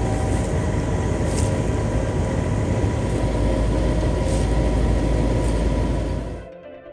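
A 1970s General Electric Weathertron heat pump running steadily with a mechanical hum, its outdoor coil frozen into a block of ice because the defrost control is broken. The sound cuts off about six and a half seconds in.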